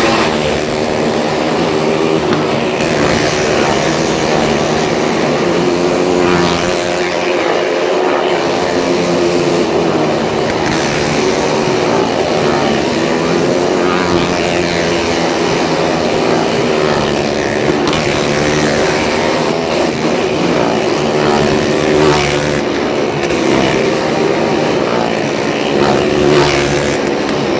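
Several motorcycle engines running hard together as the bikes circle the wall of a well of death: a loud, steady drone of overlapping engine notes that rise and fall with the throttle.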